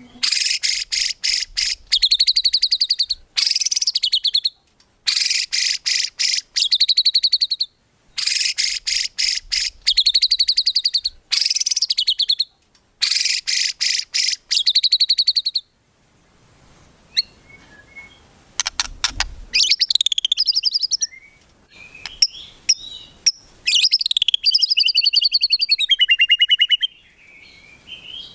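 White-rumped shama (murai batu) singing. The first half is bouts of rapid-fire repeated high notes, each phrase about two seconds long with short pauses between. The second half turns to more varied warbling phrases with rising and falling whistles.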